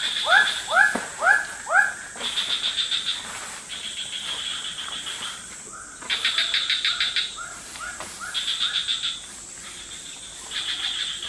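Tropical forest ambience. For about the first two seconds a bird repeats a short whistled note that sweeps up and then drops, about two a second. After that, insects trill in pulsing bursts of a second or two each, over a thin, steady, high-pitched tone.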